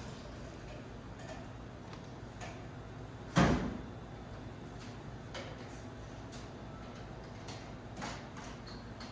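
Objects being handled: one loud knock about three and a half seconds in, among light taps and clicks, over a steady low hum.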